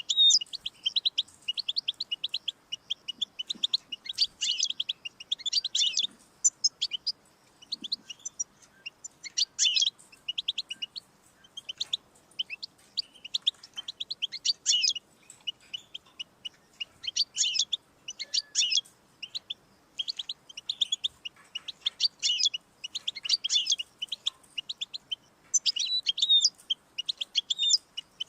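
European goldfinch singing: fast twittering phrases of high chirps and trills, broken by short pauses.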